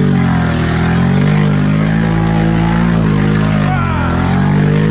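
ATV engine running steadily under throttle, its pitch wavering slightly up and down.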